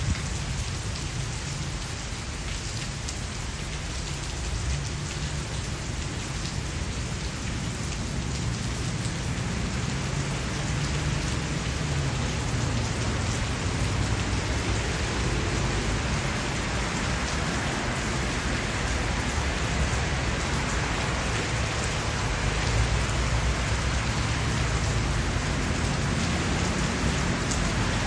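Steady rain falling, with a constant low rumble beneath it. It grows a little louder about a third of the way through.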